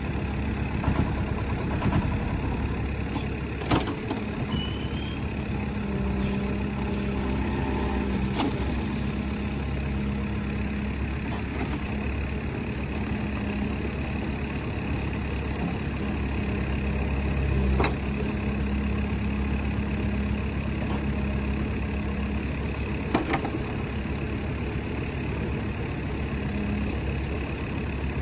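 Diesel engine of heavy earthmoving machinery running steadily, with a few sharp knocks.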